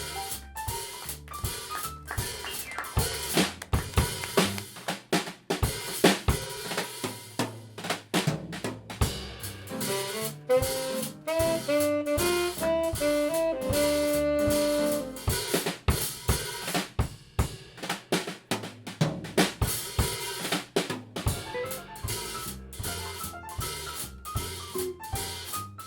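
Live jazz drum kit playing a busy, prominent passage of snare, bass drum and rim hits, like a drum solo or a trade with the band. Around the middle a short melodic phrase from another band instrument comes in over the drums.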